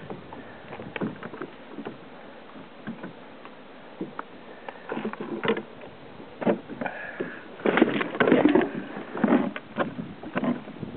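Water splashing and irregular knocks and thumps on a fishing kayak, sparse at first and busier and louder in the second half.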